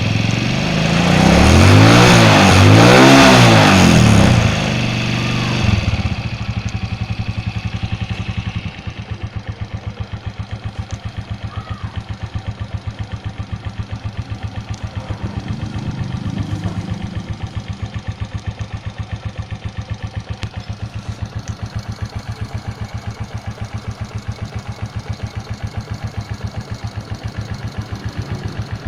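Suzuki Shogun 125R's single-cylinder four-stroke engine revved up and down twice, then settling to a steady idle with an even beat.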